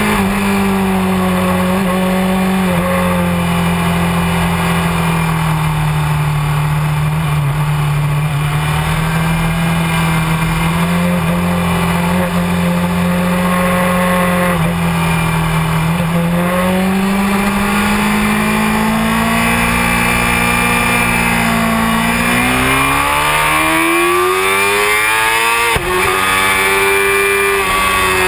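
Honda CBR600F4i inline-four sport bike engine running at speed on track. The revs hold fairly steady for a long stretch, then climb hard under acceleration, with a sudden short break near the end at a shift.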